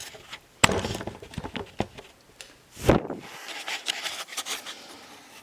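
Camera handling noise: rubbing and scraping with scattered ticks, and two sharper knocks, one just over half a second in and a louder one near three seconds.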